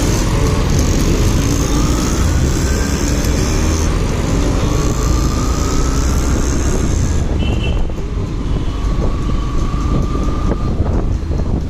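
Motorcycle on the move in road traffic: steady wind rush over the microphone mixed with the bike's engine, with the engine pitch climbing a few times as it speeds up.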